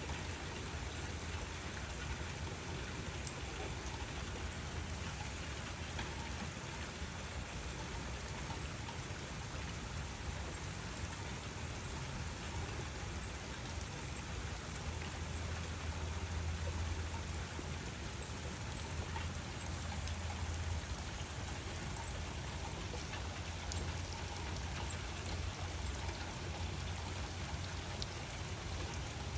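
Steady rain falling, an even hiss sprinkled with the ticks of single drops, over a low rumble that grows a little stronger about halfway through.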